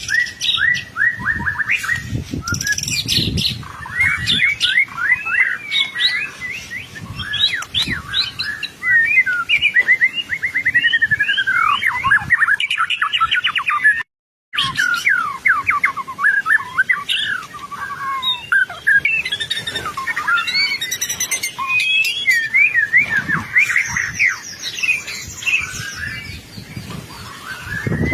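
White-rumped shama (murai batu) singing a long, varied song of fast trills, whistles and sweeping notes. The song breaks off once for a moment about halfway.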